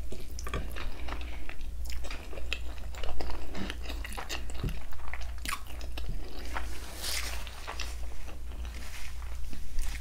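Close-miked chewing of a mouthful of palm butter and rice eaten by hand, with many irregular small clicks of the mouth.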